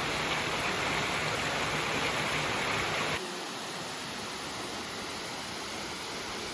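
Rushing water in a steady, even flow, loud and bright at first, then cutting off sharply about three seconds in to a quieter, duller flow of water.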